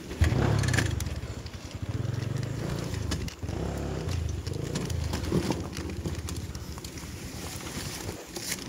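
Enduro motorcycle engine running at low revs on a forest-trail descent: it comes in sharply about a quarter second in, dips briefly around the middle and eases off near the end. Scattered crackles of dry leaves and twigs under the tyres are heard throughout.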